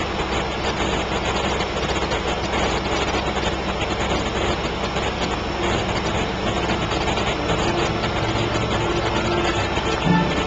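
Boat engine running steadily, a constant low hum under a dense mechanical noise.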